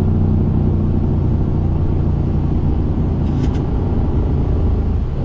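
Aircraft cockpit during the takeoff roll just past V1: a loud, steady rumble of engines and runway, with one brief click about three and a half seconds in.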